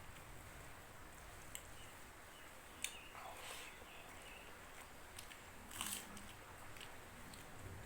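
A person chewing a mouthful of rice and curry, soft and close, with scattered wet mouth clicks, a sharp click a little before 3 s and a louder smacking bite near 6 s.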